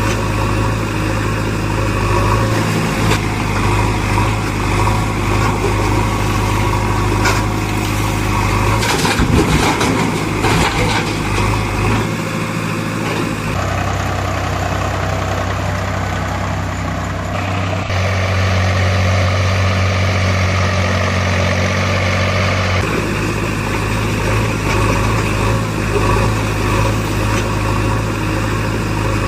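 Diesel engines of heavy machinery running steadily, the engine note changing abruptly several times as if cut between different machines.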